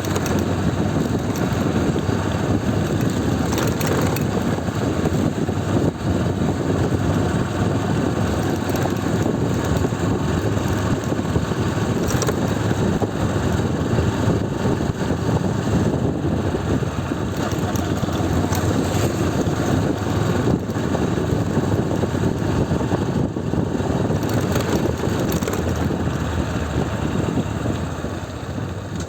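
Motorcycle running on the move, a steady rush of engine and road noise that drops a little near the end.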